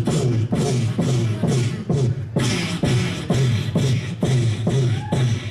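Beatboxing: a steady vocal beat of about two strokes a second.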